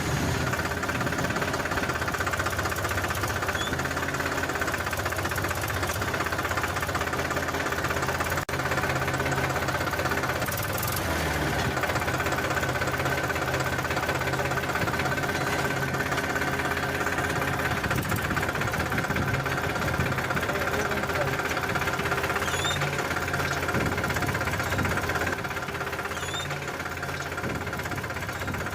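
Tractor engine running steadily with a knocking diesel-like chug, a little quieter in the last few seconds.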